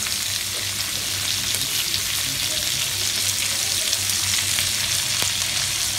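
Cubed brinjal, potato and soaked chickpeas frying in hot mustard oil in a kadai: a steady sizzling hiss with a few faint clicks.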